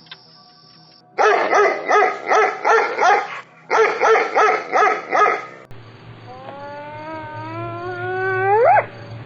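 Dog barking in two quick runs of about three barks a second with a short break between, then one long drawn-out call that rises slowly in pitch and sweeps sharply upward before it cuts off.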